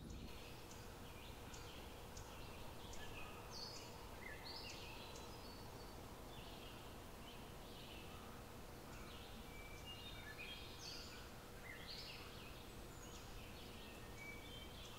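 Faint birdsong outdoors: many short chirps and whistles from several birds, scattered irregularly over a low, steady background rumble.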